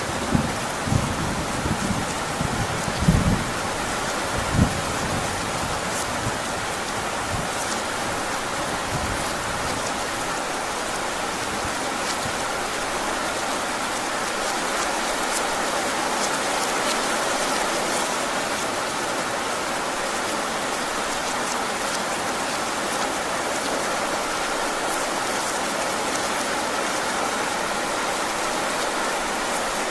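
Heavy rain falling steadily, with a few short low thuds in the first few seconds.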